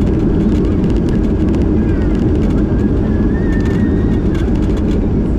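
Steady loud drone of an airliner's engines and rushing air, heard from inside the passenger cabin.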